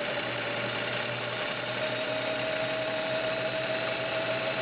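Kenmore Model 65 sewing machine running steadily with its 1.2-amp motor, stitching a cam-driven pyramid pattern, with an even hum and a steady whine.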